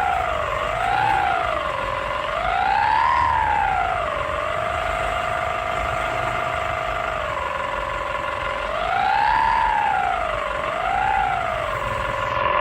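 A siren-like tone that swoops up and down in pitch, each rise and fall lasting about a second, with steady held stretches in between, over a faint low rumble.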